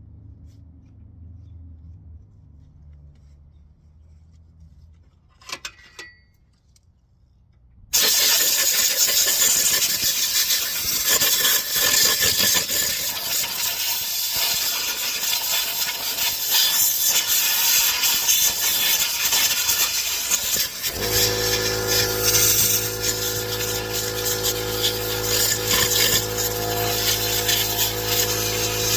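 A brief clatter, then a loud, steady mechanical noise that starts suddenly about eight seconds in, joined about two-thirds of the way through by the steady hum of a running motor.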